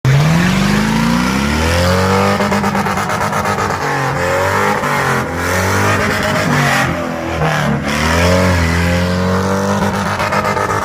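Truck engine revving hard during a tyre-shredding burnout, with the rear tyres spinning. The revs climb over the first two seconds, dip and rise again a few times midway, then hold high near the end.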